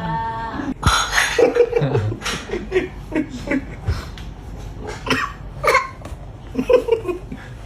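A small child's short giggles and playful vocal noises, broken into many brief bursts with a few sharp clicks.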